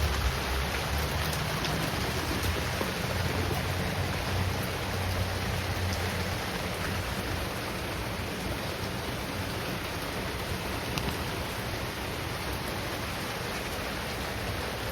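Steady rain falling, an even hiss with no let-up, with a low hum under it that fades over the first few seconds.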